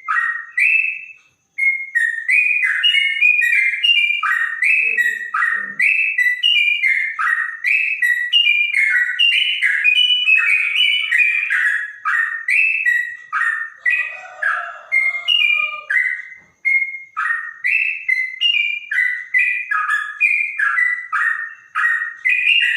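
Yellow-vented bulbul (trotok) singing a long, unbroken run of quick, clear, bubbling whistled notes.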